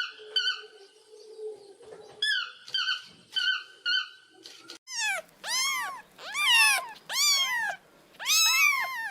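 Cat meowing repeatedly: short, high calls in the first half, then from about halfway a string of louder, longer meows that rise and fall in pitch.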